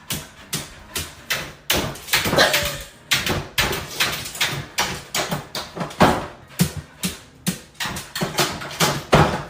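A rapid, irregular series of knocks and thumps, about two or three a second.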